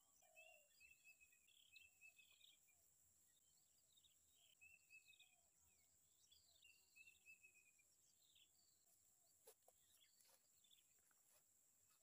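Faint bird chirping: many short high-pitched chirps and brief whistled calls repeating again and again. A few soft knocks come near the end.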